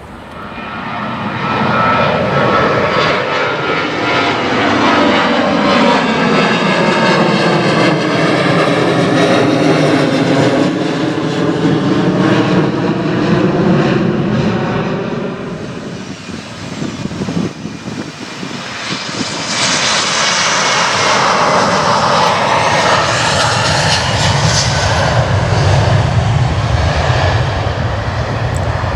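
Jet engines of a Boeing 737-based Navy jet passing low and loud, the sound sweeping down and back up in pitch as it goes by. It eases off around 16 seconds in, then swells again about 19 seconds in.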